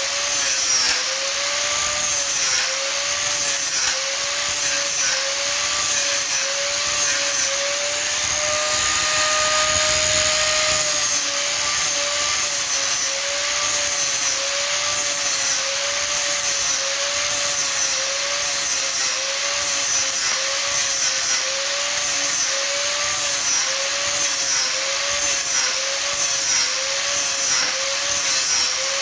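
Electric power tool working wood, its motor pitch dipping and recovering in a steady rhythm about one and a half times a second as it is loaded with each stroke. For a few seconds near the middle it runs steadily without the dips.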